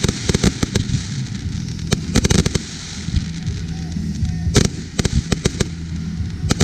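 Aerial firework shells bursting: a rapid series of sharp bangs and crackling reports in clusters, with the loudest single bang about two-thirds of the way through.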